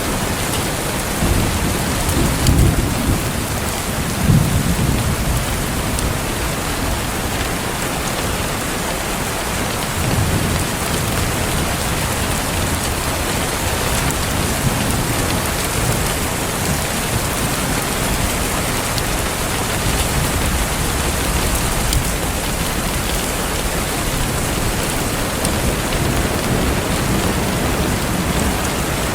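Steady rain falling, with low rumbles of thunder in the first few seconds and again about ten seconds in. A few faint sharp crackles from a fireplace sound over the rain.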